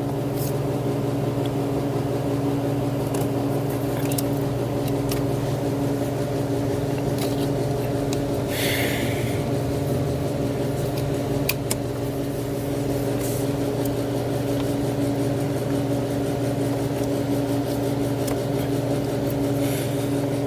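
A steady mechanical hum at a fixed, unchanging pitch, with a few light clicks and a short hiss about nine seconds in, as a plastic quick-connect hose fitting is handled and pushed onto the purge valve.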